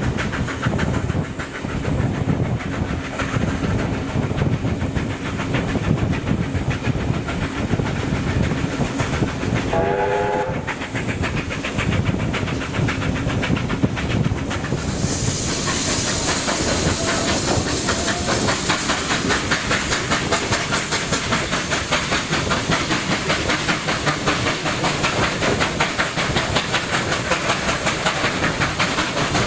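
NSW 38 class steam locomotive 3801 running with its train, wheels clattering over the rails, and a short whistle note about ten seconds in. About halfway through, a loud hiss of steam starts up, pulsing with a fast, even exhaust beat.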